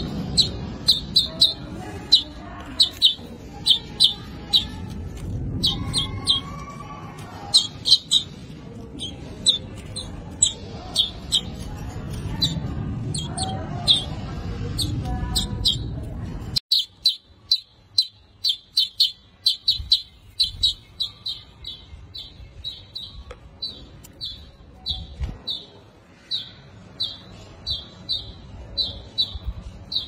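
Warbling white-eye calling with short, high chirps, repeated two or three times a second. A low background noise under the first half cuts out abruptly a little past halfway, and the chirping carries on over a quieter background.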